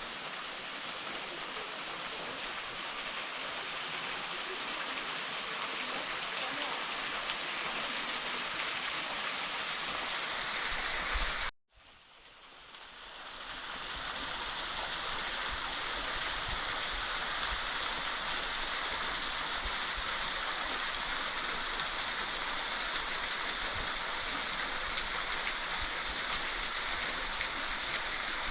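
Steady rush of water from a small waterfall and its stream, an even hiss with no separate events. About eleven seconds in it cuts out abruptly, then fades back up over a couple of seconds and carries on a little louder.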